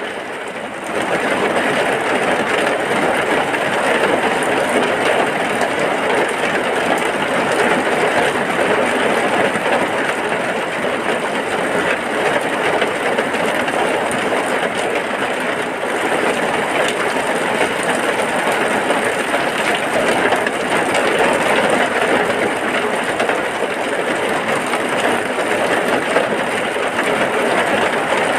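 Heavy rain falling as a steady, dense hiss, growing a little louder about a second in.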